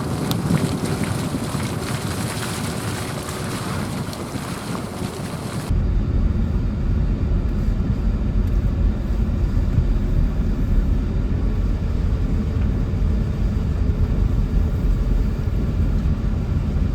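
Pickup truck driving slowly: for about six seconds a broad wind-and-road hiss, then an abrupt change to a steady low rumble.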